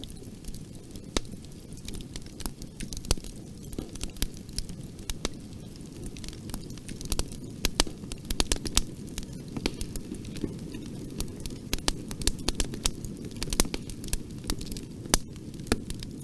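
Fire in a fireplace crackling: irregular sharp pops and snaps over a low, steady rumble of the flames, the pops bunching into quicker runs in places.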